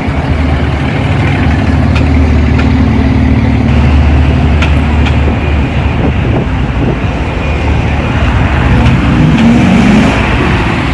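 A vehicle engine running steadily at low revs, with a short rise and fall in engine speed about nine seconds in.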